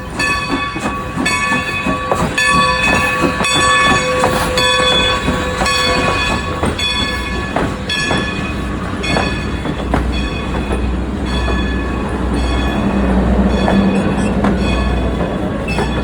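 Steam locomotive bell ringing steadily, about one stroke every two-thirds of a second, over a long steady whistle blast that ends about six seconds in. From about ten seconds in, a deep rumble of the locomotive running past joins the bell.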